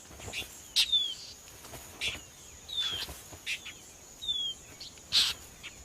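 Northern mockingbird giving short, sharp scolding calls about once a second, some as thin falling notes, the alarm of a bird driving an intruder from its nest. A faint steady high tone runs underneath.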